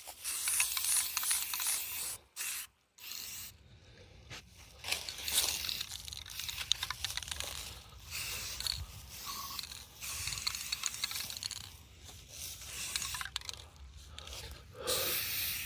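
Aerosol can of exhaust spray paint hissing on and off as a rusty muffler is coated, with scraping and clicking handling noises in between.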